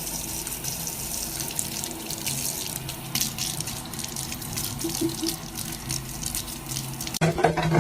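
Water running from a tap, a steady splashing hiss that cuts off abruptly near the end.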